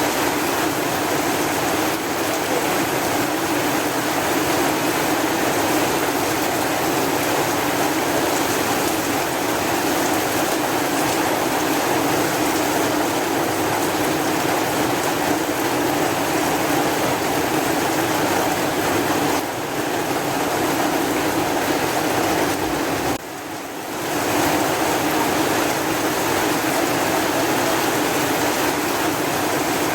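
Steady, dense heavy rain falling. The level dips briefly twice, the deeper dip about three-quarters of the way through.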